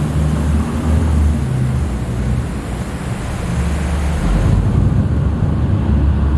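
Tour boat's diesel engine running, a steady low rumble that swells and eases, with wind and water noise over it.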